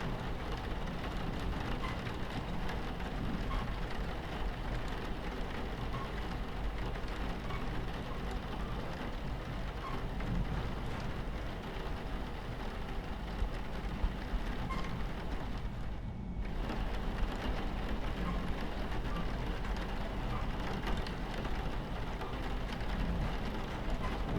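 Steady rain against a train window over the low, continuous rumble of a train running on its tracks. The rain noise briefly thins out about two-thirds of the way through.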